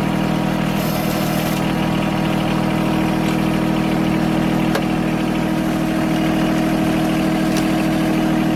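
John Deere 1023 compact tractor's three-cylinder diesel engine running at a steady idle, its pitch unchanging.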